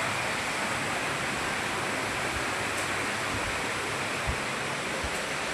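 Water running steadily into an Electrolux washing machine, a steady rushing sound with a few faint low knocks.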